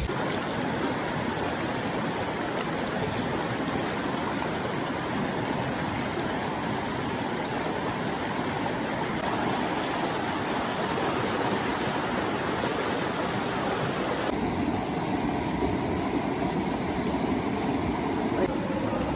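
Steady rush of waterfall water, its tone changing abruptly about fourteen seconds in.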